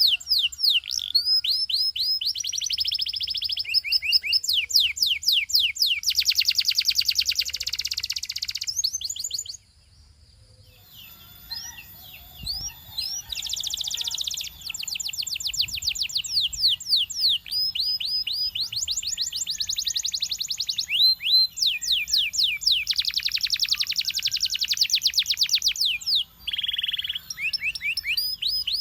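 Belgian singing canary in full song: long trills of fast repeated sweeping notes, one run after another at changing speeds, broken by a pause of about a second and a half about nine and a half seconds in.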